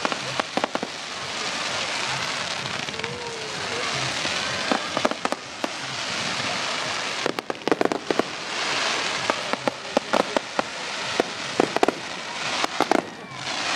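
Fireworks display: a continuous fizzing crackle from falling crackling stars, broken by clusters of sharp pops and bangs, thickest about halfway through and again near the end.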